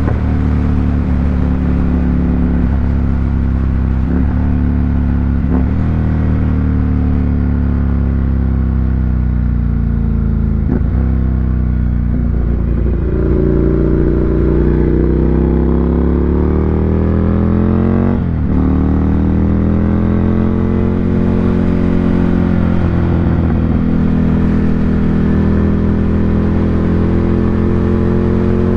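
2018 Ducati Monster 797's air-cooled L-twin running through an SC Project aftermarket exhaust, engine pitch steady at first, then rising for several seconds about halfway through, breaking off briefly and settling again.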